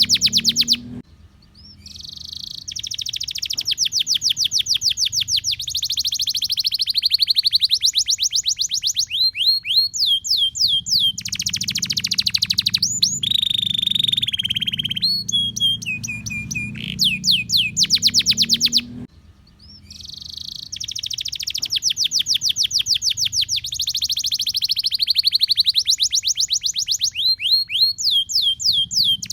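Domestic canary singing a long continuous song of fast trills, rapid runs of repeated sweeping notes with a held whistled note about halfway through. The song breaks off briefly twice and starts over the same way, with a faint low hum underneath.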